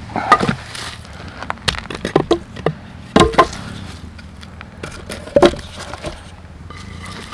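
A series of irregular knocks and clicks, with the loudest pairs about three seconds in and again about five and a half seconds in.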